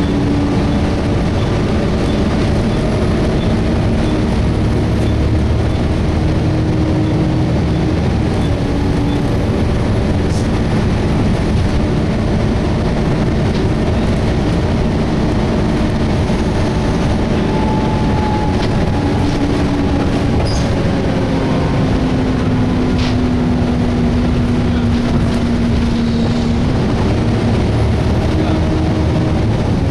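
Volvo B7TL double-decker bus heard from inside while under way: its six-cylinder diesel engine running with a steady wash of road noise, the engine note shifting in pitch several times. The cooling fan runs without any screech.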